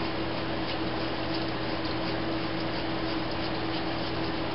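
Small electric fuel pump running steadily, humming with a constant low tone as it pushes fuel through a bank of four motorcycle carburettors to flush varnish from the needle seats.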